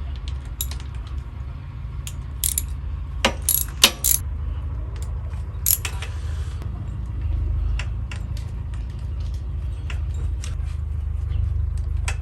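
Metal hand tools clicking and clinking on bolts as the cam cover of a 250cc quad bike engine is unbolted and worked loose. A few sharper metallic knocks come about three to four seconds in, over a steady low hum.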